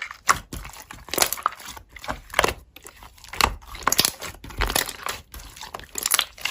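Slime being squeezed and pressed by hand, giving irregular crackling, clicking and squishing sounds a few times a second.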